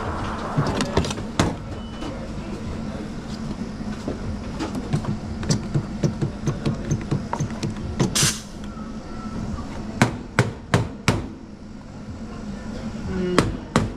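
Work at a café espresso machine, over a steady low machine hum. A run of small clicks and taps is followed by a short hiss about eight seconds in, then four sharp knocks in quick succession around ten to eleven seconds in.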